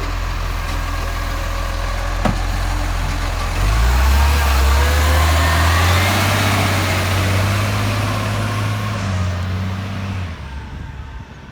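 Garbage truck engine running steadily, then revving up and holding at higher revs for about six seconds before dropping back and fading away. A single sharp click comes a little after two seconds in.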